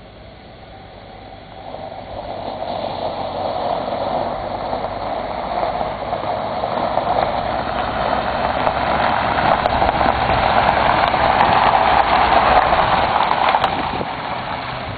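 A vehicle's running noise that grows steadily louder for about ten seconds, then eases off near the end.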